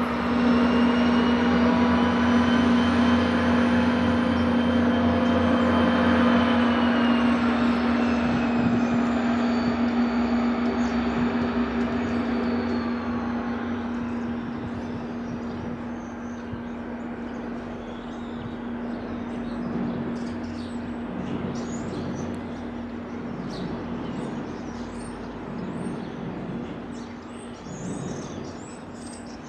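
An electric train moving away and fading out, its motor whine of several tones gliding slightly down in pitch over the first dozen seconds, over a steady low hum. Birds chirp in the second half.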